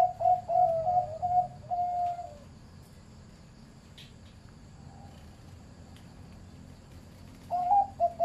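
Zebra dove of the medium-pitched singing type cooing: a quick run of warbling coos that ends about two seconds in, then a pause, and the song starts again near the end.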